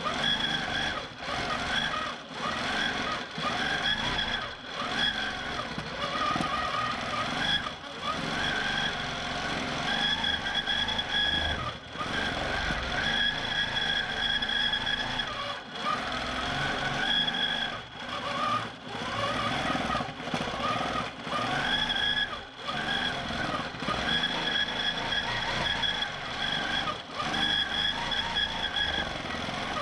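Q'nique 19 longarm quilting machine stitching in stitch-regulated mode. Its motor whine rises and falls in speed, with short dips every second or two as the head is guided over the quilt.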